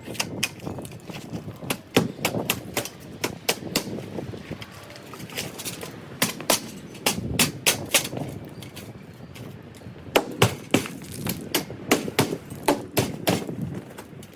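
Irregular series of sharp knocks and bangs, several a second with louder hits in clusters: a dog house being knocked apart during demolition.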